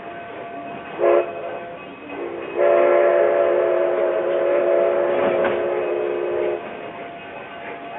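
Steam locomotive whistle on Durango & Silverton engine 315, sounding a signal: one short blast, a brief low toot, then a long blast of about four seconds. The moving train runs quietly underneath.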